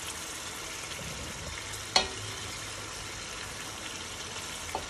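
Chicken breast strips frying in hot oil, a steady sizzle, with one sharp click about two seconds in and a fainter one near the end.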